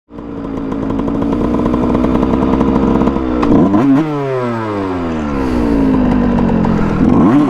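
Dirt bike engine running steadily, then revved sharply about three and a half seconds in and winding down slowly in pitch over the next few seconds, with another quick rev near the end.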